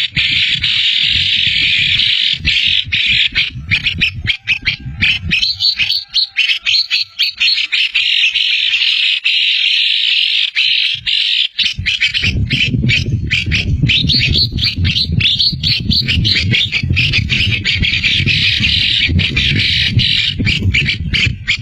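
Small birds chattering continuously in rapid, dense high calls. A low rumble sits under them for much of the time and drops away in the middle.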